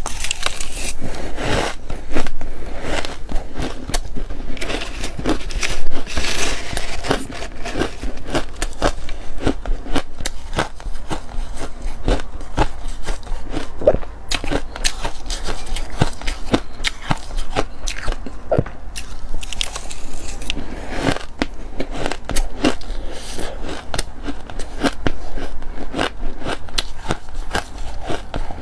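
Close-up biting and crunching of freezer frost: a continuous run of crisp, crackling crunches, loudest about two and six seconds in.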